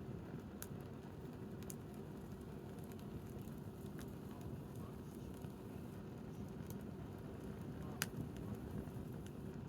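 Wood campfire burning, with a few sharp crackles and pops over a steady low background rumble; the loudest pop comes about eight seconds in.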